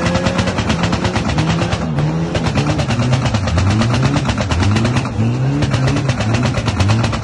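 Toyota KE70 Corolla engine revving hard during donuts. The pitch surges up and falls back again and again, about twice a second in the second half, over a fast rattling pulse.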